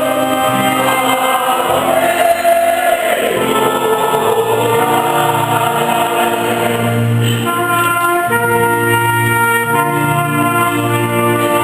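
A church music group sings with instrumental accompaniment. The first few seconds are sung, and from about the middle the notes become steadier and more sustained.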